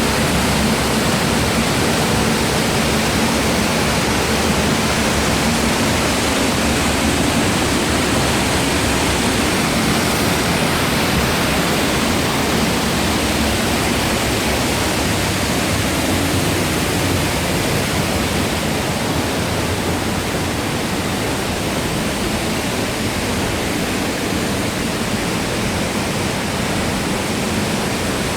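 Steady, even rush of falling water from the Kozjak stream and waterfall.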